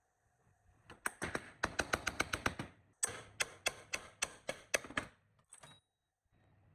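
A run of sharp taps or knocks: a quick burst of about eight a second starting about a second in, then slower, harder strikes about four a second, stopping about five seconds in.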